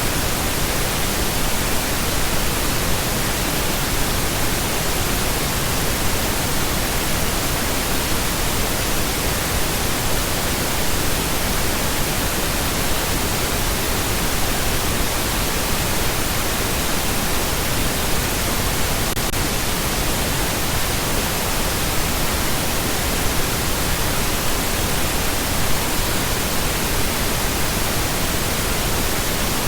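Steady, unchanging pink noise: an even hiss spread across all pitches, without tones or breaks.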